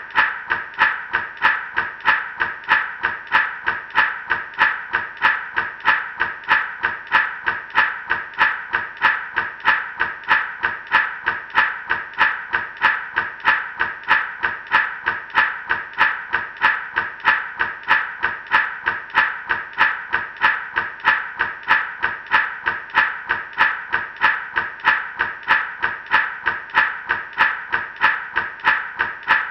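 Gourd rattle shaken in a steady, even rhythm, about two to three shakes a second, the seeds inside giving a dry rattle.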